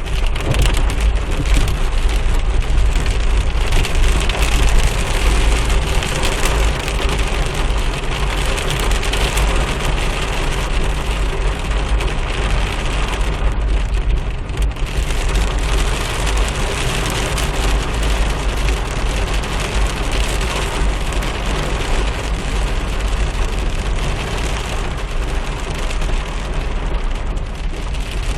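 Heavy rain falling hard and steadily, with a constant low rumble underneath.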